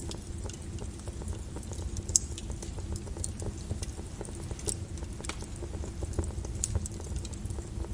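Wood fire burning in a fireplace: a steady low rumble of flames with irregular crackles and sharp pops, the loudest about two seconds in and again near five seconds.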